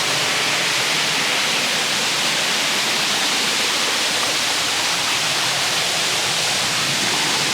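Small rain-fed waterfall pouring out of a hillside, its water splashing in a steady, even rush.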